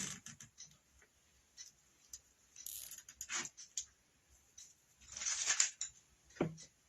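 Zip ties being threaded and pulled on wreath forms: scattered small clicks and short plastic rustles, with a louder rustle about three seconds in and another about five seconds in.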